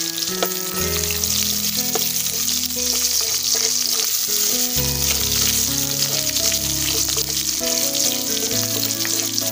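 Sliced onion, whole cumin and coriander seeds sizzling steadily in hot oil in a pan on a lowered flame, under background music of held notes.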